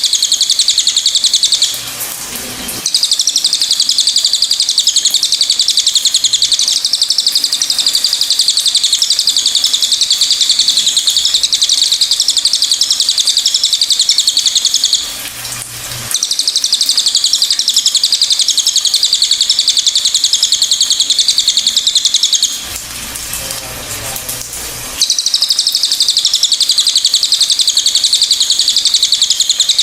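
Cililin bird singing a high-pitched, rapid, chattering trill in long unbroken bouts, pausing briefly about two seconds in, about halfway through, and for a couple of seconds near the end.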